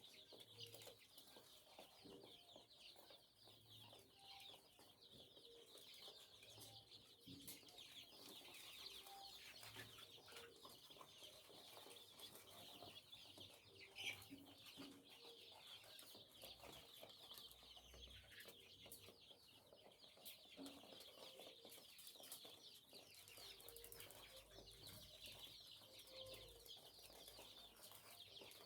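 A flock of chickens peeping and chirping together, a faint, continuous chorus of many high calls.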